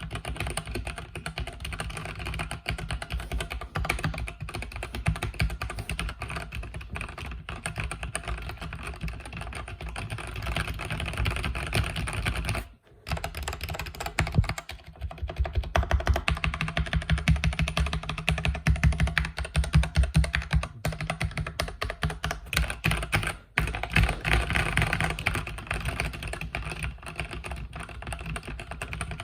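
Fast, continuous typing on a mechanical keyboard with linear red switches, a dense run of keystroke clacks, with two short pauses, about 13 s in and 23.5 s in.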